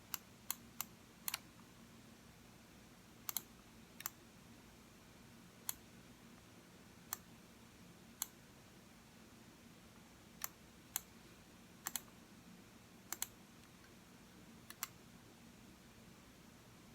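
Computer mouse clicking: single clicks and quick double clicks at irregular intervals, over a faint steady hum.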